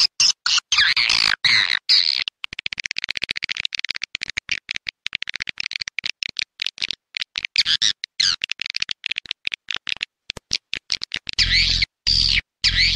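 Swiftlet lure call: rapid, densely repeated twittering chirps and trills of swiftlets, looped as a call-sound track. Low thudding pulses join about 11 seconds in.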